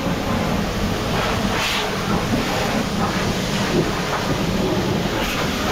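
High-pressure water jet spraying a car to blast mud off its body and out of its corners: a steady hiss of water spray, briefly louder a couple of times.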